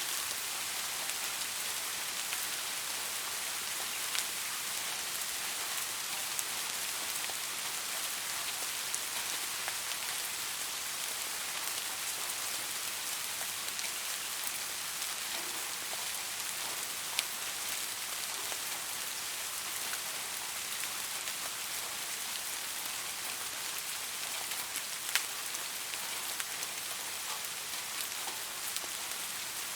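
Steady rain falling, an even hiss with scattered sharp drop ticks, two of them standing out, a little past halfway and again near the end.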